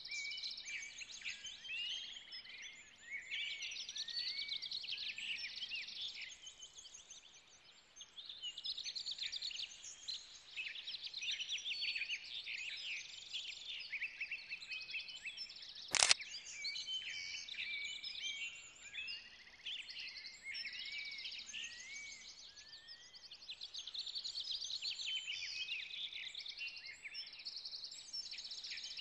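Songbirds chirping and singing continuously, a dense chorus of high calls. One sharp click about halfway through.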